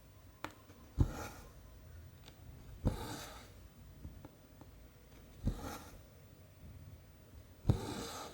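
Cross-stitch needle piercing 14-count canvas with a sharp tap, then the cotton thread drawn through with a short rasping hiss. This happens four times, about two seconds apart, with faint small clicks in between.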